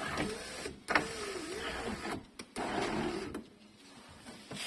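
Repaired Chevrolet Gentra electric sunroof motor running and driving the sunroof mechanism, its whine wavering in pitch, with a click about a second in. It pauses about two seconds in, runs briefly again and stops with a click a little after three seconds, as the panel tilts up.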